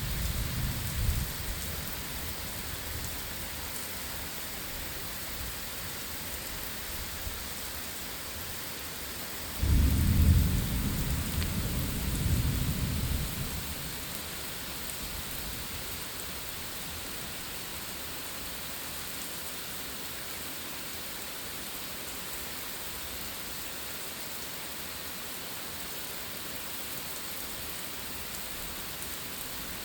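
Steady rain falling through a thunderstorm. About ten seconds in, thunder breaks in suddenly and rumbles for around four seconds before dying away; a fainter rumble is fading out at the very start.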